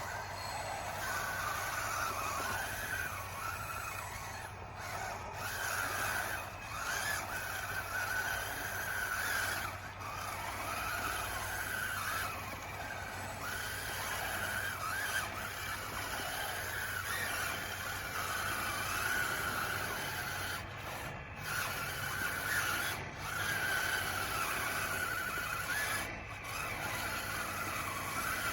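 DXR2 RC bulldozer's electric drive whining, its pitch wavering up and down as the load on the tracks changes.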